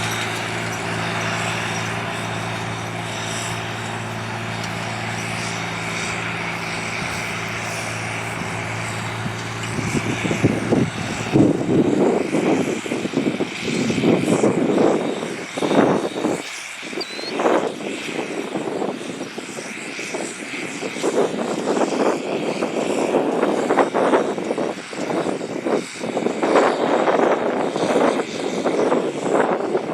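John Deere 8300 tractor's six-cylinder diesel engine running with a steady drone. About ten seconds in the drone gives way to irregular, louder rushing gusts that rise and fall for the rest of the time.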